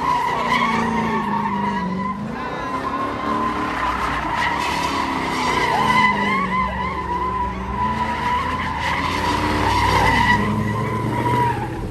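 A car spinning its tires with a long continuous squeal, the engine revving up and down underneath.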